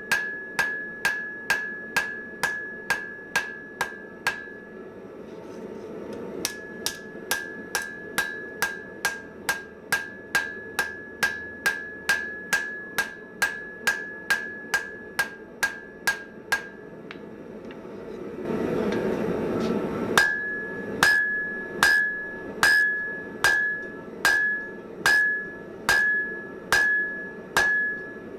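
Hand hammer blows on hot steel over an anvil, each strike followed by a short bright ring of the anvil. The blows come in three runs with short pauses between, steady at about two a second, and the last run is slower and harder; a short rushing noise comes just before it.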